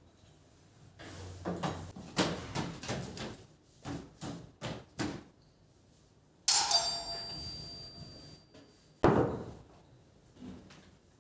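Kitchen utensils being handled: a run of short knocks and clatters, then a metal object struck so that it rings on for a couple of seconds, and a heavy thump near the end.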